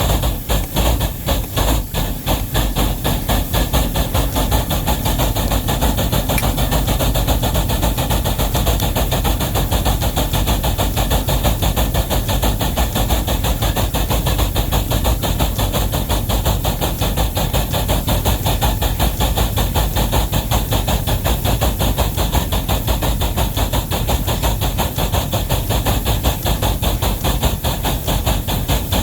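Wabash steam locomotive No. 713 working hard under a heavy train, its exhaust chuffing in a rapid, even beat.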